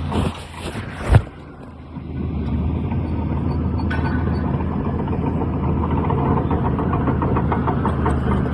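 Heavy diesel engine of landfill earthmoving equipment running steadily, with a sharp knock about a second in, then a brief drop before the engine hum comes back in.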